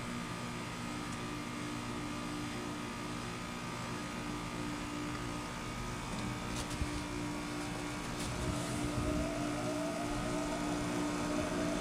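Carrier Comfort 14 heat pump outdoor unit running with a steady compressor hum. About eight seconds in there are a few clicks, then a repeating series of short rising whines as it gets louder, just before it changes over into a defrost cycle.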